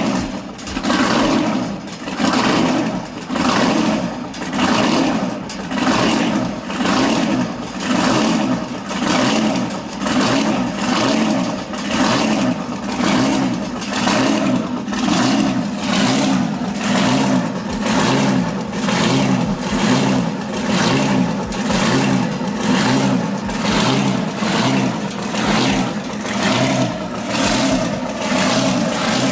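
A 1980 Asia diesel power tiller's single-cylinder engine running with a steady chugging. Its loudness swells and fades about every second and a half.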